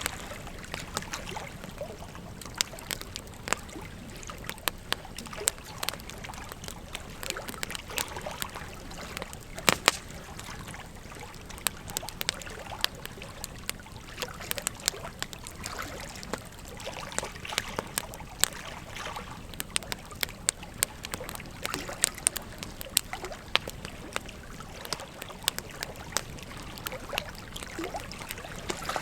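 Wood fire crackling, with frequent irregular sharp pops, over the steady rush of a flowing river.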